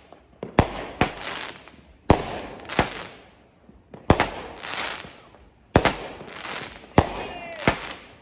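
Consumer fireworks going off in a string of sharp bangs. They come in about five pairs in eight seconds, each bang trailing off in a brief crackle.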